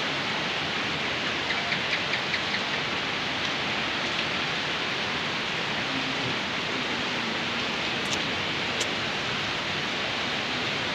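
Steady rain falling on a pond and its concrete bank, an even hiss. A short run of small ticks comes about two seconds in, and two sharp clicks come about eight seconds in.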